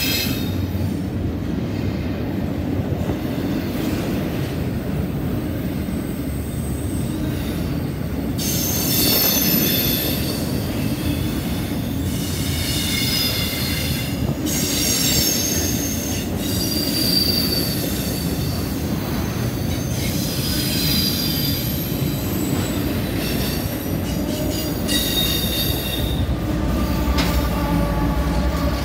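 CSX double-stack container train rolling past: a steady rumble of wheels on rail, with high-pitched wheel squeal coming and going again and again from about eight seconds in. Near the end a mid-train locomotive passes, adding a low, steady engine tone.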